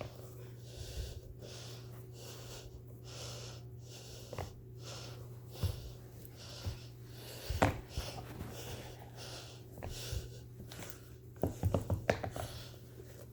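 A person breathing close to the microphone in repeated soft, hissy breaths, over a steady low hum, with a few sharp knocks and handling clicks near the middle and end.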